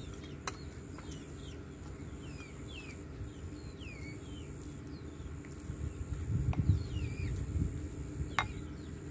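Wild birds calling with many short, falling chirps, over a faint steady high whine. A few sharp clicks of chopsticks and a spoon on bowls, and a louder low rumble a little past the middle.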